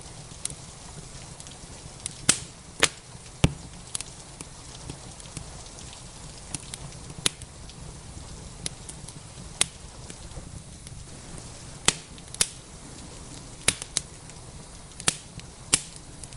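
Wood fire in a fireplace crackling: sharp, irregular pops every second or so, a few louder than the rest, over a steady low rumble.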